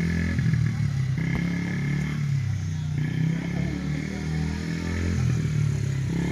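Motorbike engine running steadily, its pitch shifting a little up and down.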